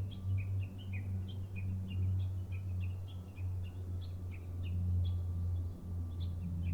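Small birds chirping, a string of short falling chirps repeated about three times a second, over a steady low hum.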